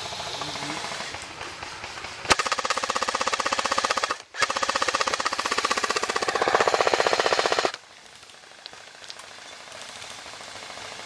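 Airsoft gun firing two long full-auto bursts, a rapid even stream of shots, with a brief pause between them. The firing stops abruptly about two-thirds of the way through.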